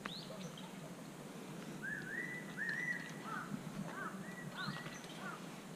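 Faint birdsong: a bird sings a run of short, clear whistled phrases, with a quick upward-sweeping note at the start and again near the end.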